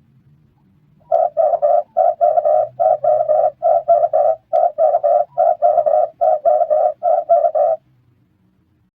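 Red turtle dove cooing: quick three-note coos, one set after another, starting about a second in and stopping near the end.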